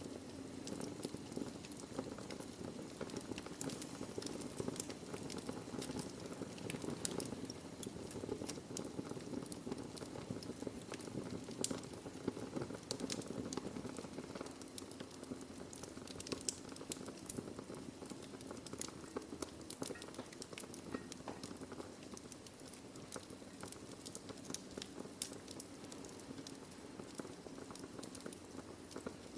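Wood fire in a fireplace crackling and popping, with many sharp irregular snaps over a steady low rushing burn.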